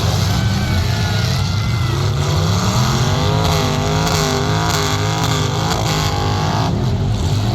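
Demolition derby truck engines running loudly, with a steady low rumble and pitch rising and falling as the engines rev in the middle.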